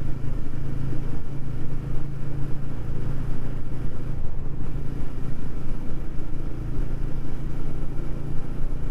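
TVS Ronin's single-cylinder engine running at a steady cruise, heard from a helmet-mounted camera together with wind and road noise.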